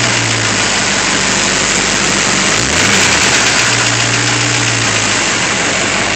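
1995 Ford Mustang's engine running, with a loud, steady hiss over a low hum whose pitch rises briefly near the start and again about three seconds in. This is the bad noise the owner is asking about.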